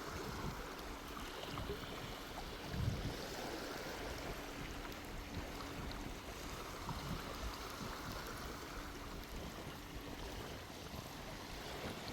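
Gentle waves washing onto a sandy shore with sea breeze, a steady rushing wash, with one dull thump about three seconds in.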